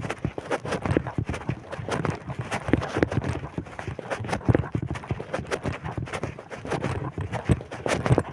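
Footsteps of a person walking, a quick run of irregular steps, with wind buffeting the microphone.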